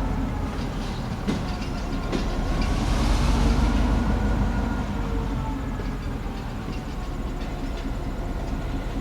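EMD GP9 diesel-electric locomotive with its 16-cylinder two-stroke diesel running as it moves rail cars, a steady low rumble. There are a couple of sharp clanks in the first two seconds, and a brief rushing hiss swells and fades around three seconds in.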